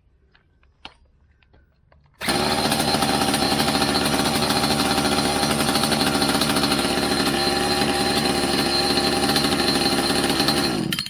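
Electric drill driver on high speed turning a Rovan Baja 5B's two-stroke engine through its electric start kit, a loud steady run of about eight seconds that starts a couple of seconds in and cuts off suddenly near the end.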